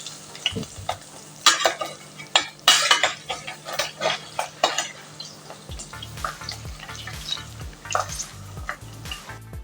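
Cooking utensils clinking and knocking against pans and dishes in irregular strokes while breakfast is cooked. A background music beat comes in about six seconds in.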